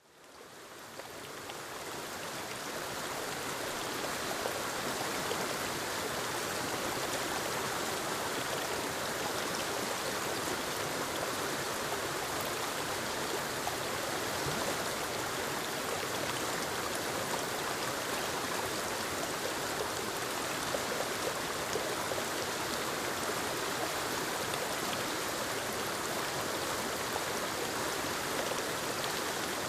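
A small forest waterfall cascading over moss-covered rocks into a stream, giving an even, steady rush of falling water. It fades in over the first few seconds.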